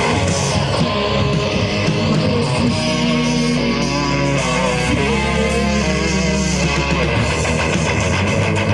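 Rock band playing live, instrumental passage led by electric guitars over bass. About three seconds in the guitars hold long sustained chords for a few seconds, then the full band comes back in.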